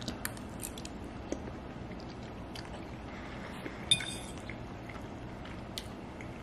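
Faint wet chewing and small mouth clicks from eating a mouthful of creamy spaghetti, with one short clink about four seconds in.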